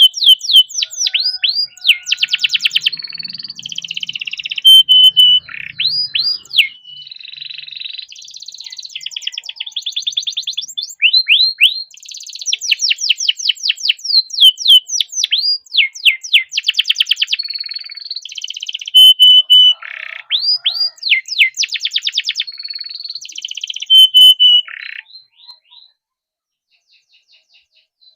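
Domestic canary singing a long, fast song of rapid trills, rising sweeps and held whistled notes. It stops about three seconds before the end, and a few faint notes follow.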